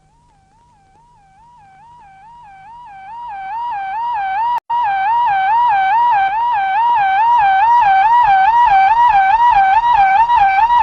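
Electronic warbling warning tone, a single pitch wavering rapidly just under 1 kHz about twice a second. It fades in from faint and grows steadily louder, with a brief cut-out about halfway through.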